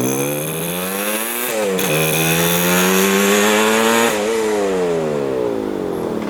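1975 Yamaha RD200's two-stroke twin engine under way: the revs climb, drop suddenly at a gear change about a second and a half in, climb again more slowly, then fall away after about four seconds as the throttle closes.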